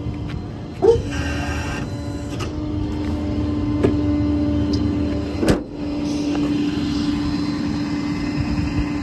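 Diesel engine idling steadily with an even hum. A short clunk comes about a second in and a sharp knock about five and a half seconds in.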